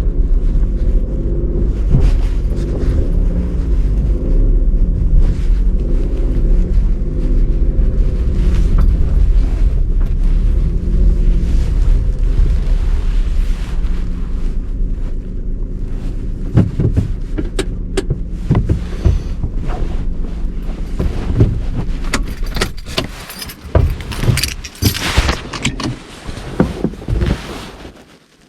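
A motor vehicle's engine runs with its pitch rising and falling as it drives slowly, then stops about three-quarters of the way through. Clattering, knocking and rustling follow until near the end.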